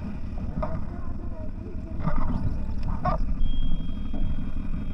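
CFMOTO 1000 off-road vehicle driving over rough ground, its engine and running gear making a steady low rumble, with a few short sharper sounds and a thin steady high whine from about three and a half seconds in.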